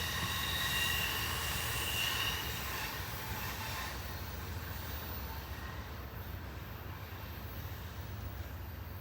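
Amtrak passenger train rolling past with its wheels squealing in several high steady tones. The squeal fades out about three seconds in, leaving the steady low rumble of the train.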